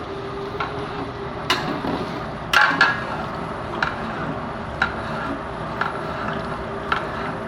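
A metal spoon or ladle knocking against a cooking pot about once a second while the chicken is stirred, the loudest a quick double knock about two and a half seconds in, over a steady burner and cooking noise.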